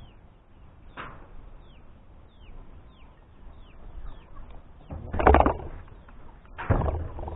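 A bird calling over and over with short, high notes that fall in pitch, about two a second. Two louder noises break in near the end.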